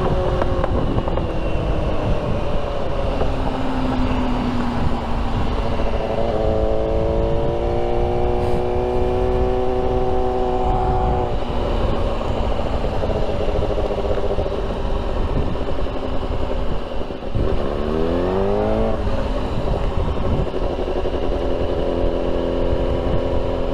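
Suzuki motorcycle engine running while riding, its note held steady for several seconds in the middle, then a brief dip about 17 seconds in followed by a quick rising rev as the bike picks up speed.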